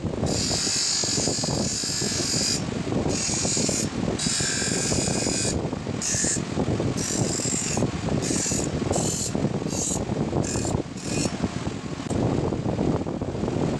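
Workshop machinery running with a rapid, continuous clattering, while a high hiss cuts in and out again and again.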